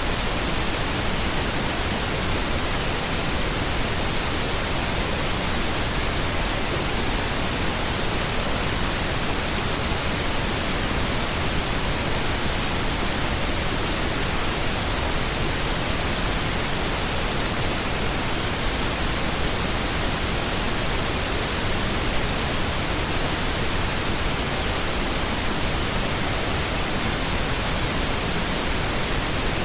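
Steady pink noise: an even, unchanging hiss spread across the whole range, softer in the highs than white noise, much like ocean surf.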